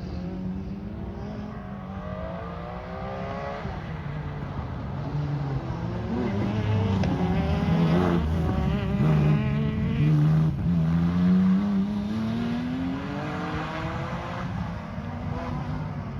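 Porsche 996 rally car's flat-six engine revving hard through the gears as the car drives past. The pitch climbs and drops back at each upshift, growing louder toward the middle, then fading.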